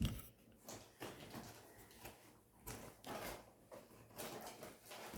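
Cardboard box and its packing being handled as the box is opened: irregular, faint rustling and scraping.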